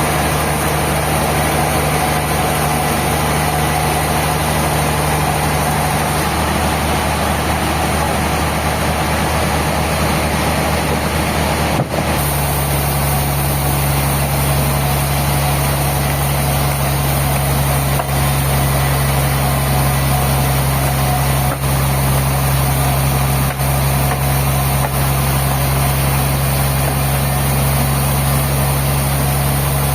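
Sawmill machinery's engine running steadily, with a low even hum. About twelve seconds in the sound changes abruptly to a slightly different steady pitch.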